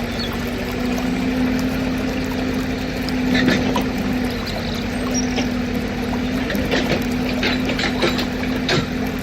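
A steady motor hum, with sand pouring and trickling and scattered light clicks and rattles.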